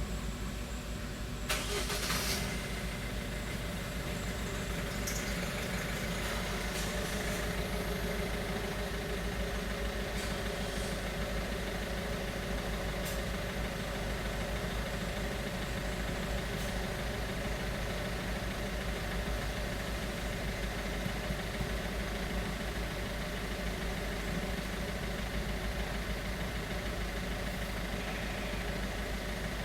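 Car engine running steadily at idle, with a short loud noise about two seconds in.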